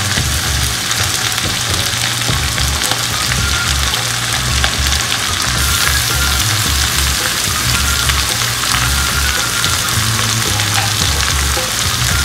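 Steady sizzling of stir-frying in a non-stick pan as diced mango is tipped in over fried fish fillet and vegetables and turned with a slotted spatula. Background music with a low bassline plays underneath.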